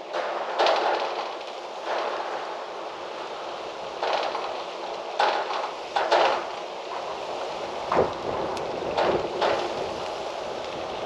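Gusty wind rustling through trees, with a steady hiss and several louder gusts surging every second or two.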